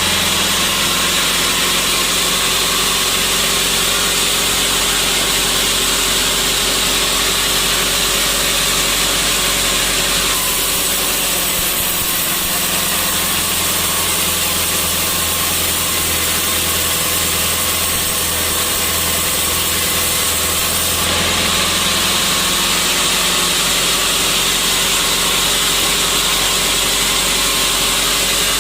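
Sawmill saw and its drive motor running steadily, with a low hum under a strong high hiss. The hiss drops back about ten seconds in and returns about ten seconds later.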